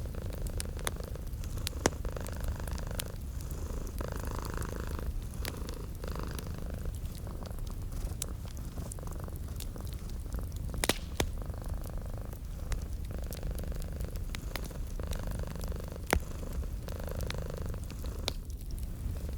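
Domestic cat purring steadily in slow, soft swells, with the crackle and pop of a wood fire throughout, the loudest pops near 2 and 11 seconds in.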